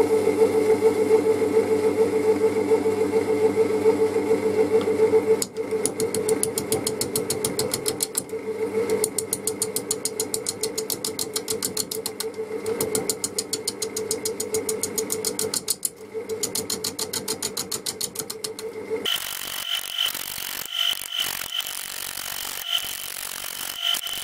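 Wood lathe running at its slowest speed with a wet sycamore blank on a faceplate: a steady motor hum, joined after a few seconds by a fast, regular ticking of a gouge cutting the spinning wood, several hits a second. About three-quarters of the way in the sound changes abruptly to a higher, pulsing ring.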